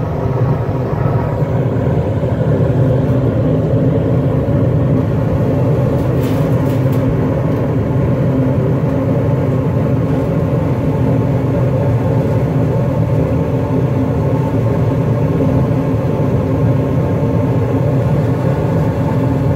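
Carrier gas-fired package unit running in heating mode, a steady low rumble and hum that holds level throughout.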